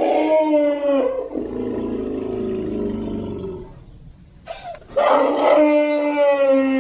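Creature vocalization sound effect for a made-up rhinoceros-like beast: a pitched, howl-like roar about a second long, then a lower, rough growl for a few seconds, then a second long pitched roar near the end.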